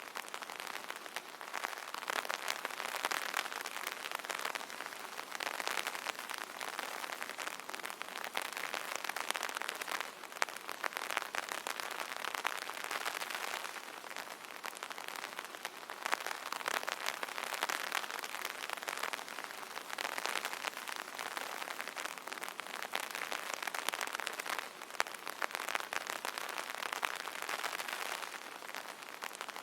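Steady rain pattering on an umbrella canopy: a dense crackle of drops that swells and eases every few seconds.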